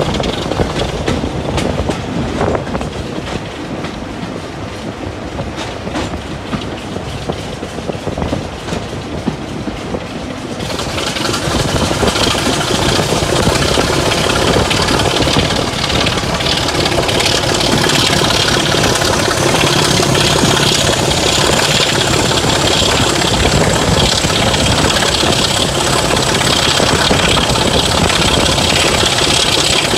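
A train running along the line with a steady rumble. About ten seconds in the sound changes abruptly, growing louder and brighter, and a high whine rises in pitch and then holds steady.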